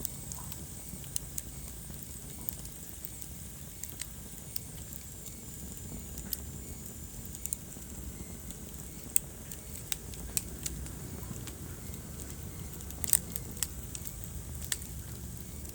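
Wood fire burning in a fireplace: a low, steady sound of the flames with scattered sharp crackles and pops, the loudest about thirteen seconds in.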